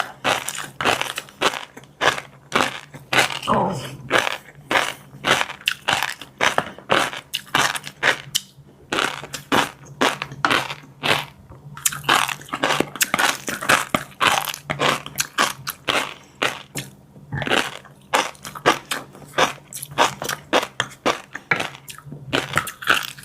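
Close-miked chewing of fish roe and a crunchy chili-garlic seafood mix: a rapid, uneven run of crisp crunches and crackles, several a second, with short pauses between mouthfuls.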